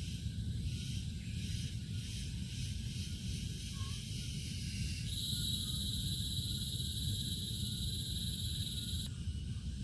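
Insects chirring in the forest over a steady low rumble. About five seconds in, a high, even insect buzz starts, then cuts off suddenly about four seconds later.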